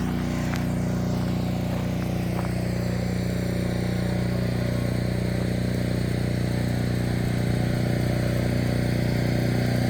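A small engine running at a steady speed, a constant low hum that does not change.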